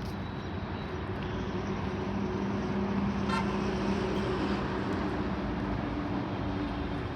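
Jet airliner engines running, a steady roar with low tones that slowly fall in pitch. A short rapid chirp about three seconds in.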